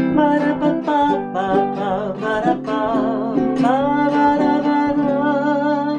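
Song with a voice singing wordless scat syllables in a bouncing melody over strummed ukulele chords.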